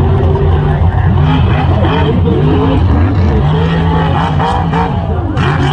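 Mega truck engines running with a steady low rumble, revved up and down again and again.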